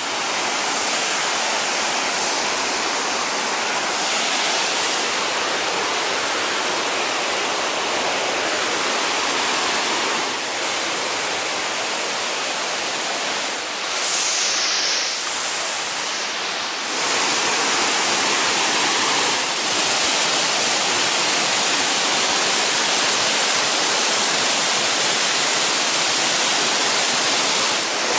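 Waterfall water pouring and splashing in a steady, loud rush, growing slightly louder after about 17 seconds.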